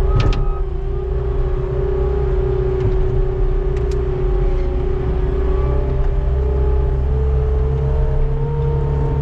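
Skid steer engine running steadily under load with a constant high whine over its drone. A sharp clank sounds right near the start, and two light clicks come about four seconds in.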